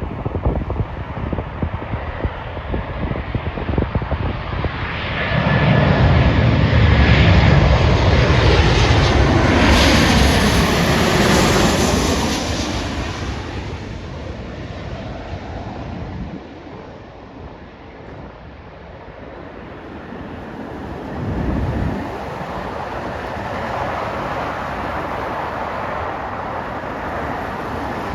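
Boeing 737-800 jet airliner on landing approach passing close by, its CFM56 engines swelling to a loud roar with a whine that falls in pitch as it goes past, then fading away. A short low rumble follows near the end.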